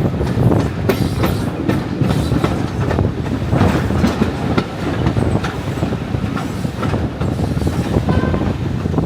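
Heritage diesel train running, heard from on board: a steady rumble with the wheels knocking irregularly over the rail joints.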